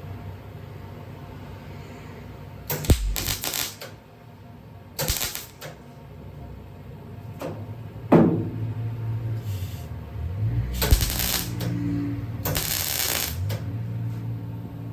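Welder laying a series of short tack welds on a sheet-steel cab patch panel: about five separate bursts of arc crackle, each up to about a second long, with pauses between them.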